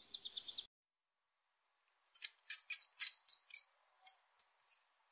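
High-pitched, bird-like chirping: a quick run of chirps at the very start, then silence, then about ten sharp chirps a few tenths of a second apart.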